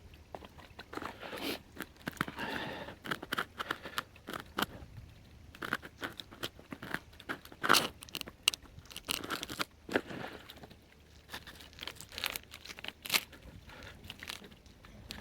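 Irregular crunching and snapping of small twigs and bark.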